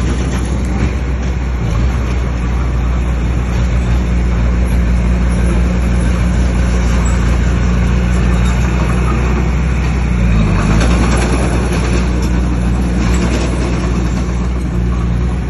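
Bulldozer's diesel engine running steadily under load while pushing stone fill, with a dense rough noise over the engine note. About ten seconds in, the engine pitch dips briefly and recovers.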